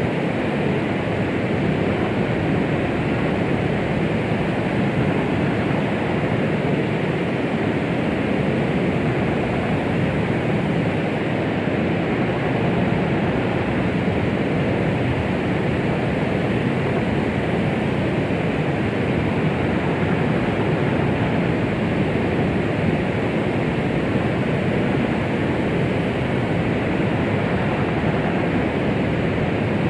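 Continuous white noise of the 'womb sound' kind used to calm a baby: a steady, muffled rushing hiss with most of its weight low and in the middle, no rhythm or heartbeat, unchanging throughout.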